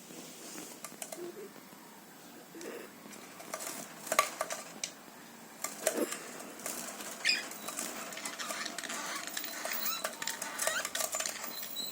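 Pet lovebirds making a few short, high chirps among scattered sharp clicks and taps, with the loudest click about four seconds in.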